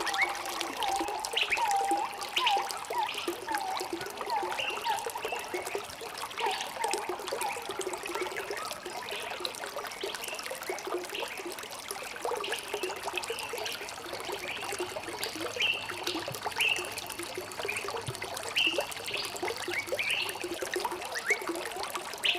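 Running water trickling and babbling, with many quick liquid plinks and gurgles close together, thickest in the first few seconds.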